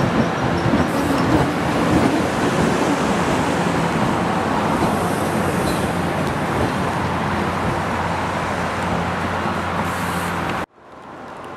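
Steel wheels of a diesel-hauled passenger train rolling and clicking over the rails as the last coach passes close by, over a steady drone of the Brookville BL20GHM diesel locomotive that slowly eases as the train pulls away. It cuts off abruptly near the end to a much quieter background.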